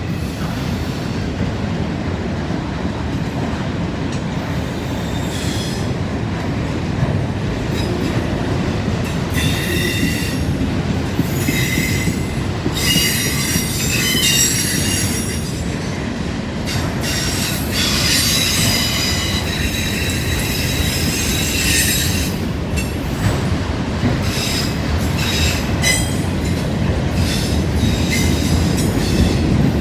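A long freight train's cars rolling past with a steady rumble, while steel wheels squeal and screech on the rail in repeated high-pitched bursts, heaviest in the middle of the passage.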